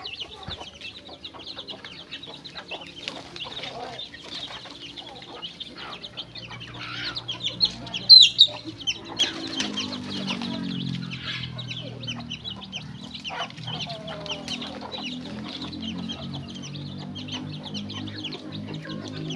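Chickens clucking amid rapid, high chirping that goes on throughout, with a loud sharp call about eight seconds in. From about nine seconds a low steady hum joins in.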